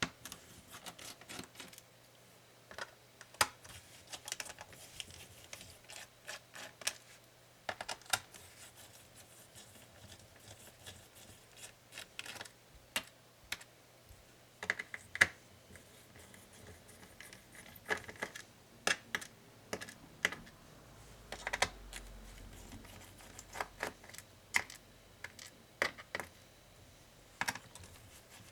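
Irregular small clicks, taps and rattles of small tools and plastic and metal parts being handled on a laptop during disassembly, with a few sharper knocks scattered throughout.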